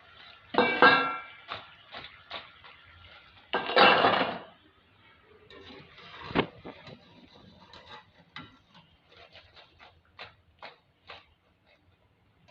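Metal utensils clattering against cookware as fried fritters are lifted out of the oil onto a plate. Two loud, ringing clatters come in the first few seconds, then a single sharp knock and a run of light clicks.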